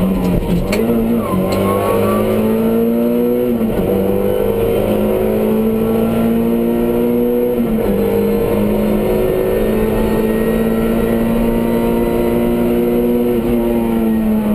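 Rally car's engine heard from inside the cabin at full effort on a stage, its pitch climbing under acceleration and dropping sharply at each gear change, several times.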